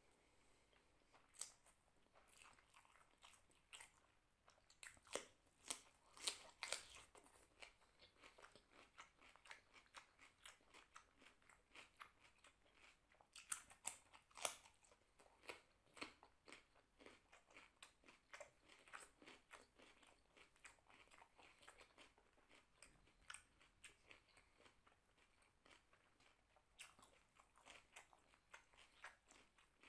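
Close-miked chewing of a person eating rice and vegetable masala by hand: a quick, uneven run of wet mouth clicks, loudest in clusters about five to seven seconds in and again around fourteen seconds.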